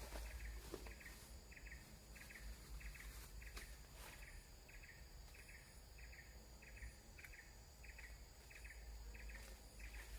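Faint insect chirping, short, evenly repeated chirps at about two a second, over a low steady hum.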